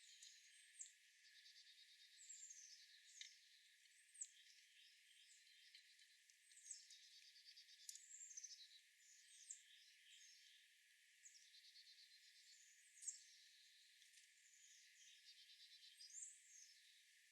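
Faint outdoor birdsong: small songbirds repeating short, high chirps that sweep down in pitch, with several brief rapid trills between them.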